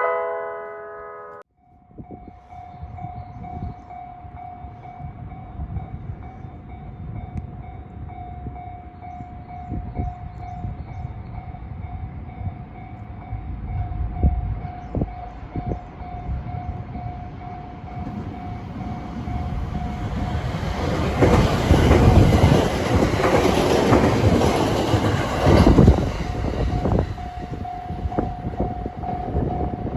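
Japanese level-crossing warning bell ringing steadily. About two-thirds of the way in, a 521 series electric multiple unit of two coupled sets passes over the crossing with a loud rumble and clatter of wheels over the rails. The bell is heard again near the end.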